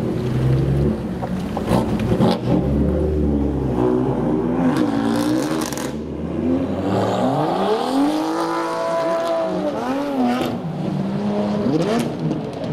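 BMW M3's twin-turbo straight-six accelerating hard, with several sharp exhaust pops. Later an engine revs up in a long climb, holds, then falls away, followed by a shorter rise.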